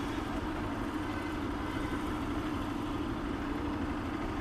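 Bajaj Pulsar RS200's single-cylinder engine idling steadily at a standstill, with other vehicles idling around it.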